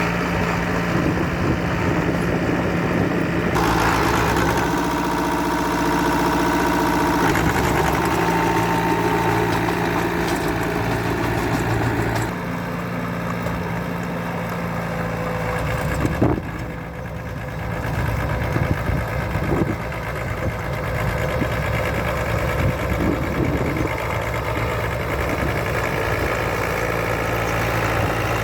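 Heavy diesel construction machinery running with a steady engine drone. From about three to eight seconds in, a higher whining tone rises over it. About sixteen seconds in there is a sharp knock, followed by a few smaller knocks.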